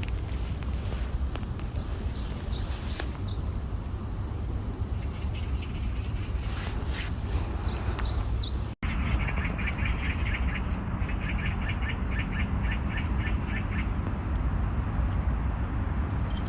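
Birds calling over a steady low rumble: a few short high chirps in the first half, then, about halfway through, a long fast run of rapid repeated notes lasting some five seconds.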